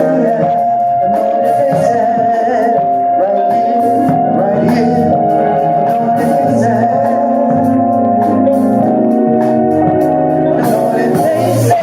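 A contemporary gospel song: singing with long held, wavering notes over a band with a steady drum beat.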